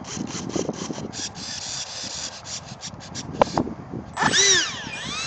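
Parkzone Habu foam jet's electric ducted fan passing overhead: a high whine that rises and falls in pitch twice near the end. Before it, irregular rustling noise.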